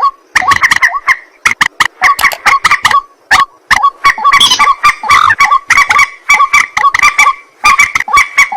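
White-breasted waterhens (ruak-ruak) calling: a loud, rapid run of short croaking notes, several a second, broken by brief pauses.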